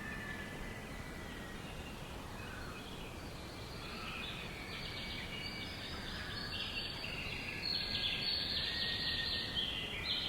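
Songbirds chirping and trilling over a steady hiss of outdoor background noise; the calls grow denser and louder for the last few seconds.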